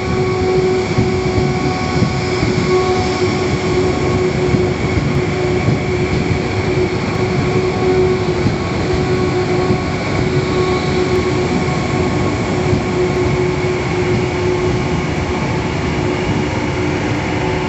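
Electric passenger train running past the platform close by: a loud, steady rail rumble with a steady high tone over it.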